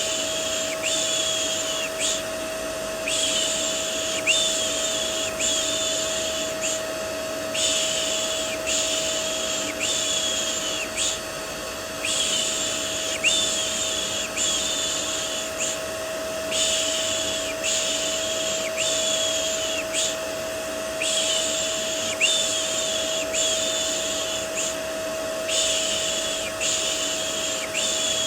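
Vacuum cleaner running steadily, its motor giving a constant hum, with a repeated "shh" shushing over it for soothing a baby. The shushes come about once a second in runs of three to five, with short pauses between the runs.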